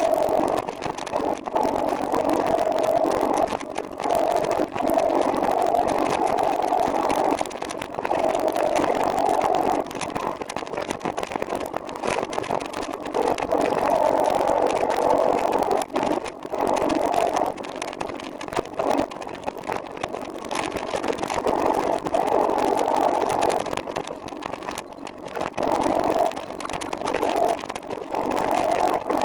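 Riding noise from a recumbent trike on the move: a steady rushing of wind and tyres that swells and dips every few seconds.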